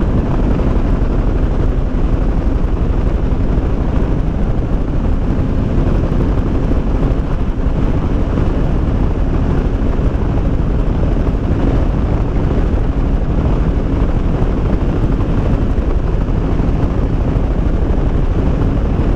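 Motorcycle cruising at a steady speed, its engine running under a continuous rush of wind over the helmet-mounted microphone.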